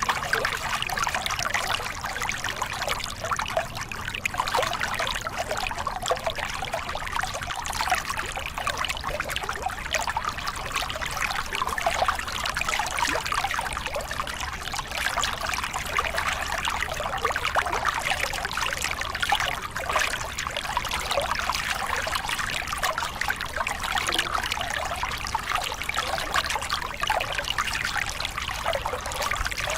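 Small river cascade: water splashing and pouring over rocks in a steady, even rush with a fine bubbling texture.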